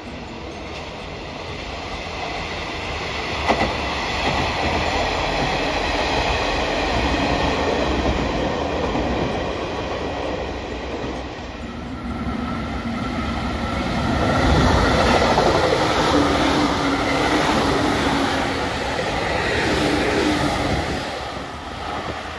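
A train passing, its wheels clattering over the rail joints. The sound builds to its loudest about two-thirds of the way through, with a steady whine in the second half, then fades near the end.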